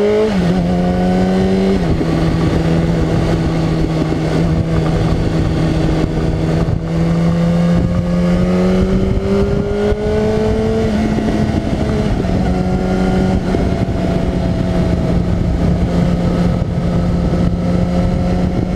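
Motorcycle engine under way: it finishes accelerating, drops in pitch at a gear change, then runs at steady revs with a slow rise in pitch around the middle and a drop back about twelve seconds in. A dense rush of wind and road noise lies under the engine note.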